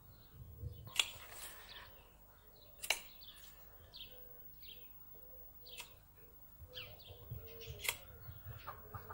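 Faint small-bird chirps, scattered short calls, with four sharp clicks and a low rumble underneath.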